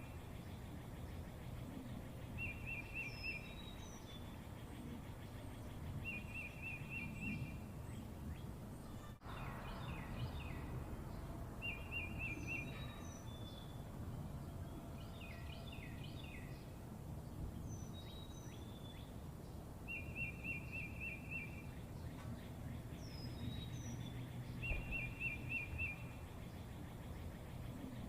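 Birds calling: one bird repeats a short, fast trill every few seconds, with other brief high chirps in between, over a steady low background rumble.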